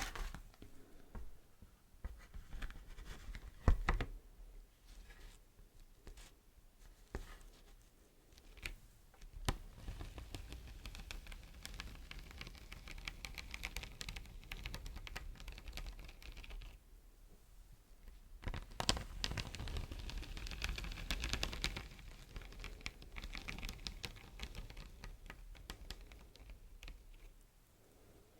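Close-miked beeswax wrap being tapped and crinkled. There are scattered light taps at first, with one sharp knock about four seconds in, then two long stretches of dense crinkling and crackling.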